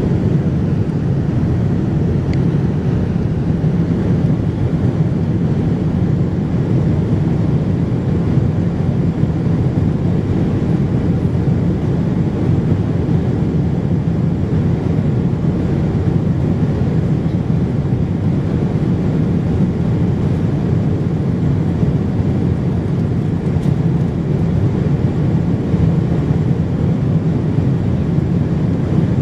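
Steady cabin noise of a Boeing 787-9 Dreamliner in flight: an even, unbroken rush of airflow and engine noise heard from inside the passenger cabin.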